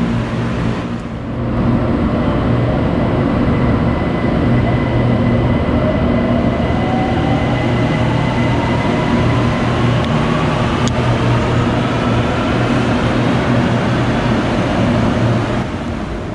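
BTS Skytrain electric train pulling out of an elevated station: a steady rumble of the cars, with a motor whine that rises in pitch as the train gathers speed. A single sharp click comes about eleven seconds in.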